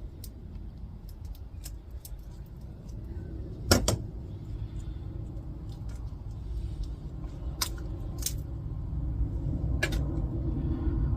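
Small clicks and knocks of an old electricity meter's plastic and metal parts being handled and pried apart, with one loud sharp crack about four seconds in, over a steady low rumble that grows louder toward the end.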